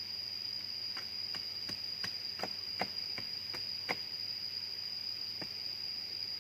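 Steady, high-pitched insect drone, with a quick run of about ten sharp knocks, roughly three a second, and one more knock a little later.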